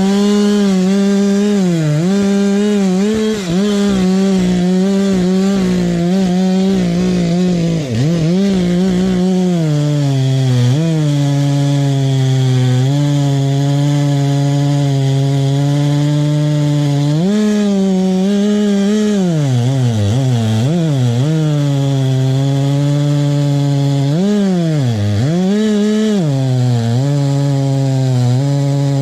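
Stihl chainsaw cutting oak, running loud and steady under load. The engine pitch dips and climbs again several times as the chain bites into the wood and frees up.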